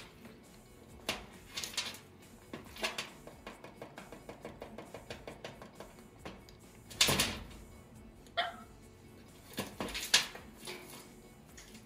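A Moluccan cockatoo rooting through shredded newspaper and wood pieces for hidden nuts: scattered rustles and knocks, with a quick run of small ticks in the middle.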